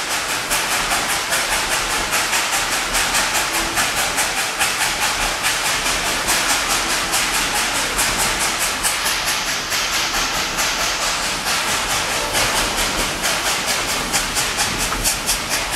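Narrow-gauge steam train under way: the locomotive chuffing and the cars clattering over the rails in a fast, even rhythm, with a steady hiss of steam.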